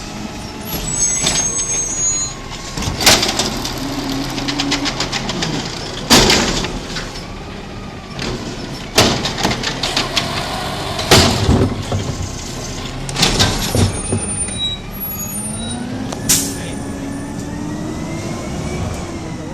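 Garbage truck working, its engine rising and falling in pitch as it revs. About six sharp, loud bangs or hisses come a few seconds apart.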